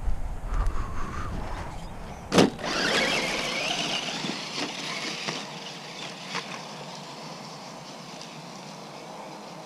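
Traxxas Slash 4x4 RC short-course truck's electric motor whining as it pulls away and fades off, after a sharp click. The click comes about two seconds in, after some rumbling handling noise. The whine is followed by a steady faint hiss.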